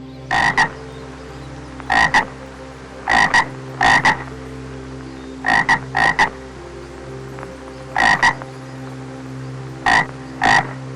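An animal calling in short double croaks, two quick pulses each, repeated at irregular gaps of about half a second to two seconds over a steady low hum.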